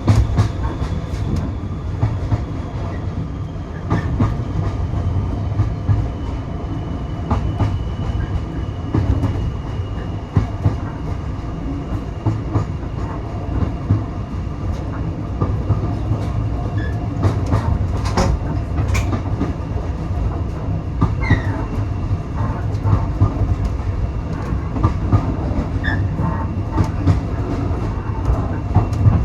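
Railway carriage running along the line, heard from on board: a steady low rumble with scattered clicks and knocks from the wheels on the track, and a faint thin high whine that slowly falls in pitch.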